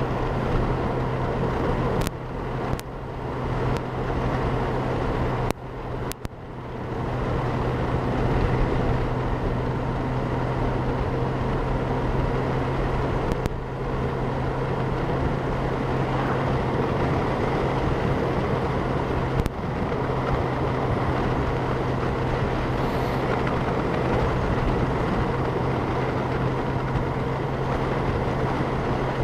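Honda Gold Wing motorcycle at road speed, heard from a helmet-mounted camera: a dense rush of wind noise on the microphone over a steady low hum. A few sharp clicks and short drops in level come a few seconds in.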